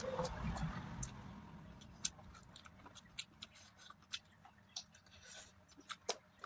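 A person chewing food close to the microphone, with wet mouth clicks and smacks. A dull low rumble in the first second gives way to scattered sharp clicks.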